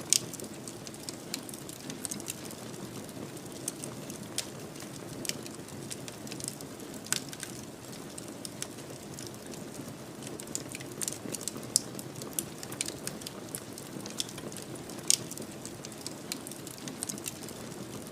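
Wood fire crackling in a fireplace: irregular sharp pops and snaps, a few of them louder, over a steady low rush of the flames.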